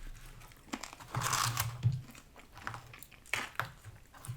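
Close-miked eating of French fries: irregular chewing and crunching with paper crinkling. The loudest stretch is about a second in, with shorter bursts later.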